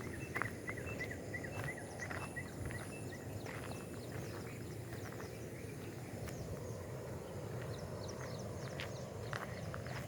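Outdoor ambience: small birds chirping in quick repeated notes over a steady low rumble, with scattered brief clicks.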